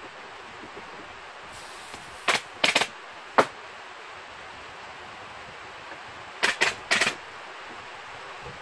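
Pneumatic upholstery staple gun firing: three quick shots, a pause of about three seconds, then three more, over a steady hiss.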